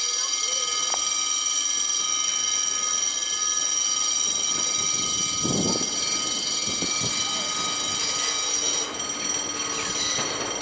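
An AGC regional railcar approaching along the track, its running noise growing near the end. A set of steady high ringing tones sounds throughout.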